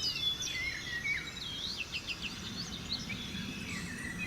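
Many small birds chirping and twittering in quick, overlapping calls over a low, even background noise of open-country ambience.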